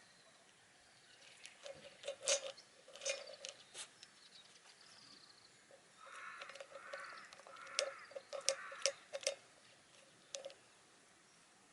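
A Shiba Inu chewing and crunching chicken wing tips, with a series of sharp cracks as the small bones break between its teeth and a stretch of wet chewing in the second half.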